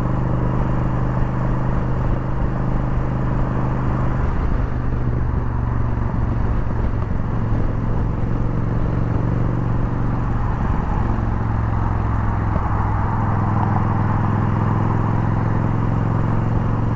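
Yamaha Bolt's air-cooled 942 cc V-twin engine running steadily while the motorcycle is ridden, with wind noise over it. About four seconds in the engine note wavers and shifts, then it settles into a steady note again about twelve seconds in.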